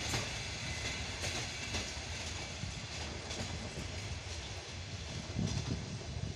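ER9M electric multiple unit rolling past on a far track: a steady rumble of wheels on rails with scattered clicks over the rail joints, easing slightly as it moves away.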